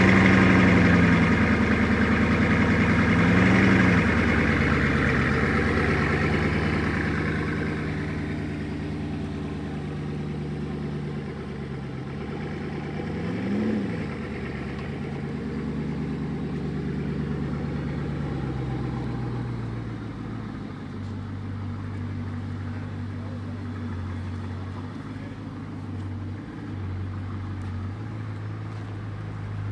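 Bugatti Chiron's quad-turbo W16 engine at a high idle just after startup. The throttle is blipped briefly twice, about 3.5 and 13 seconds in, and the engine fades as the car drives off. A steadier, lower engine idle takes over for the last third.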